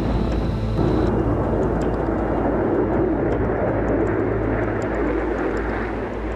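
Jet aircraft engine noise: a steady rushing sound that grows louder about a second in and eases a little near the end.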